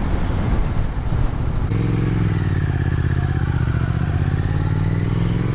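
Motorcycle engine running under way. It is rough and uneven for the first second and a half, then settles into a steady engine note.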